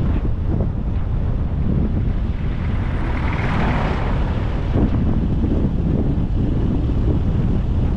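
Car driving along a road: a steady low rumble of road and engine noise with wind buffeting. A brief rushing hiss swells and fades in the middle.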